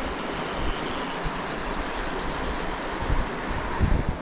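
Steady rushing of a mountain stream's water, with a few low rumbling thumps near the end.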